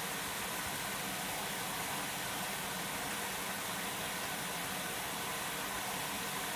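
Electra AWF683 washing machine filling with water for the prewash: a steady hiss of water rushing into the drum.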